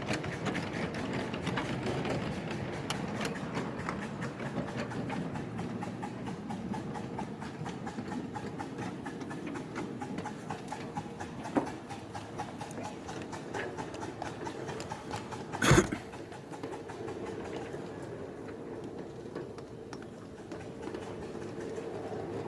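Ride-on miniature railway train running along the track, its wheels clicking steadily over the rails. There is a sharp click about halfway through and a single louder knock a few seconds later.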